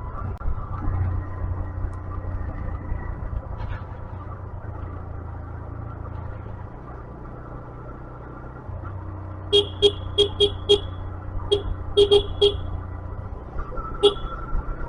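Motorcycle engine running steadily under way, then a horn tooted in a rapid string of short beeps about nine and a half seconds in, followed by further short clusters of beeps near the end.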